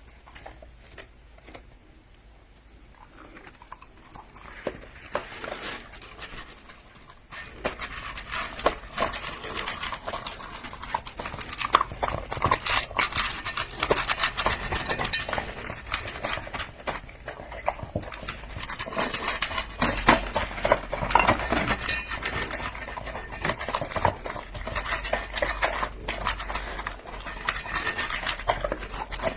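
A dog eating wet dog food from a bowl: fast chewing and licking mixed with clicks and knocks against the bowl. It starts faintly and grows louder and busier after a few seconds.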